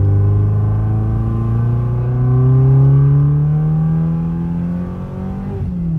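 Modified Maruti Suzuki Baleno's engine accelerating hard through a gear, heard from inside the cabin: its pitch climbs steadily for about four seconds, then falls away near the end.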